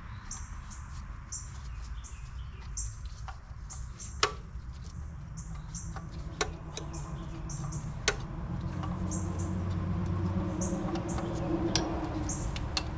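Short, high chirps repeat every half second to a second, with a few sharp metallic clicks from work on the engine. A low steady hum grows louder about halfway through.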